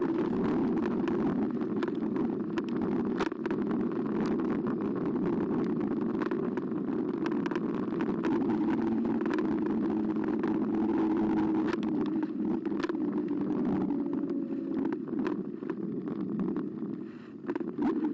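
Carbo X eBike being ridden: a steady hum and rolling tyre noise, with scattered clicks and knocks from bumps in the path.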